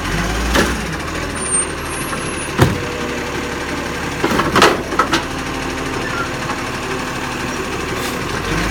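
Garbage truck engine running steadily, with a few sharp knocks about half a second in, two and a half seconds in, and a cluster near the middle.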